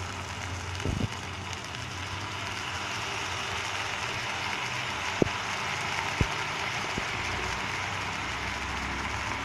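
Soaked poha (flattened rice) sizzling in hot oil in an iron kadai as it is stirred, a steady hiss with a low hum underneath. A few sharp clicks of the spatula against the pan come about a second in and again around five and six seconds.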